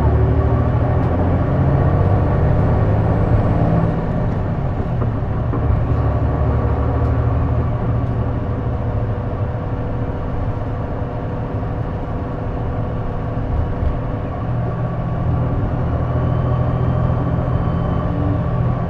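Running sound of a J-Bus-built diesel city bus heard from inside, a steady engine drone with a thin steady whine over it. The bus is known for an odd noise, which the uploader places somewhere around the exhaust or the turbocharger.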